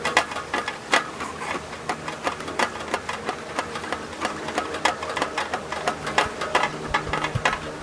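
A rapid, irregular run of clicks and light knocks from handling at an open beehive. From about six seconds in, a steady low hum of agitated honeybees joins it.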